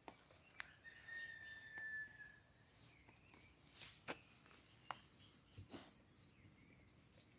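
Faint outdoor ambience with a bird's single long whistle about a second in, and scattered soft clicks and taps.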